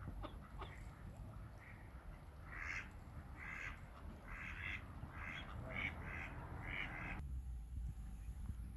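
Ducks quacking in a quick run of short calls, which cut off abruptly about a second before the end.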